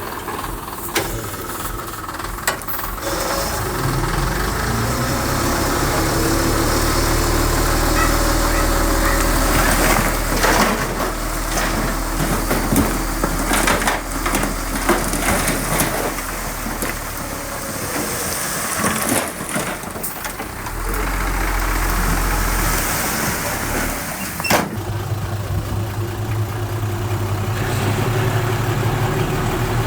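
Heavy diesel earthmoving machinery running, with scattered sharp metallic clanks and knocks. The engine note steps up about four seconds in and changes again near the end.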